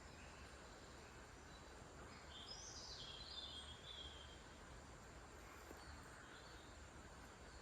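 Faint nature-sound backdrop: a steady soft hiss, with a bird calling in a short chirping phrase about two and a half seconds in and a softer call later.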